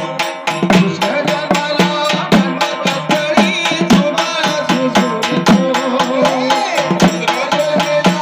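Marathi folk music: a fast, steady hand-drum beat with rattling percussion under a melody.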